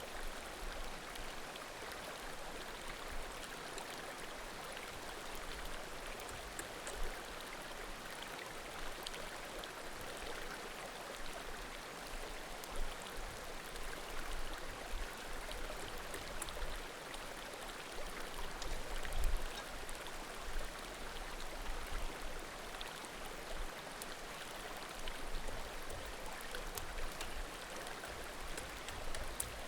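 Small mountain creek babbling steadily, with faint scattered crackles and pops from burning firewood.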